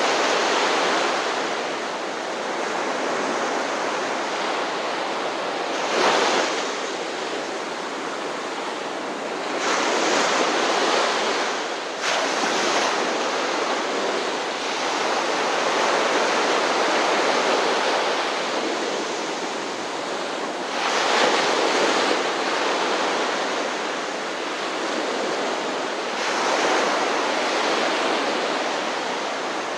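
Ocean surf: a continuous rush of breaking waves, with a louder wave crashing in every few seconds.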